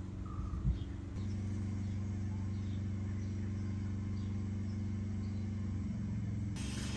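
A 2025 Triumph T120's 1200 cc parallel-twin engine running at a steady speed, with a brief knock under a second in. More hiss comes in near the end.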